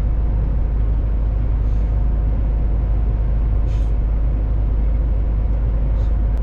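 MAN TGX semi truck driving at steady speed on the motorway: an even, loud low rumble of diesel engine and road noise, with three brief faint hisses about two, four and six seconds in.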